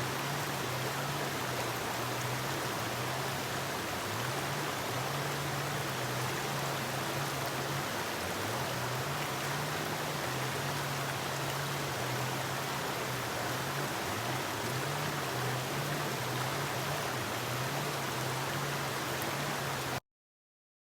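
Forest river water rushing steadily, an even hiss spread over a wide range of pitches. A low droning hum that wavers in pitch runs underneath it, and everything cuts off suddenly near the end.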